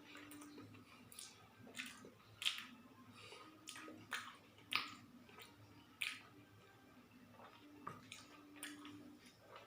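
A person eating and chewing food close to the microphone, with short wet mouth smacks and clicks coming irregularly, about one a second.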